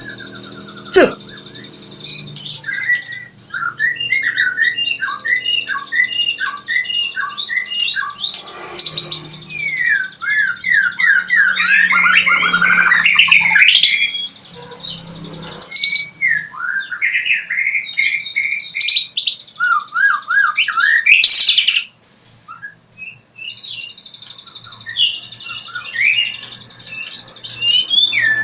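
Magpie chicks calling over and over, with shrill rising and falling chirps and squawks that overlap in dense runs, briefly dropping out about two-thirds of the way through.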